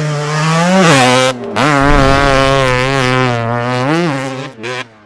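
Dirt bike engine running at a steady pitch, with a quick throttle blip about a second in and another near four seconds. The sound cuts out abruptly twice, briefly after the first blip and again just before the end.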